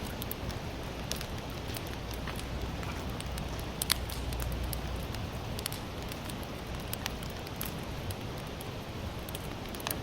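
Sawtooth oak (kunugi) firewood burning in an open campfire: a steady hiss with scattered sharp crackles and pops, the loudest pop about four seconds in.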